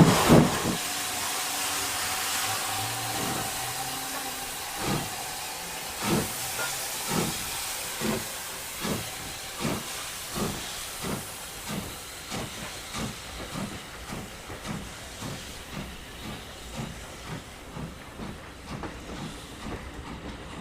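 A steam train passing and moving away. Loud exhaust beats right at the start give way to a steady hiss of steam. Regular thumps, about one a second and slowly quickening, grow fainter as the wheels go over the rail joints into the distance.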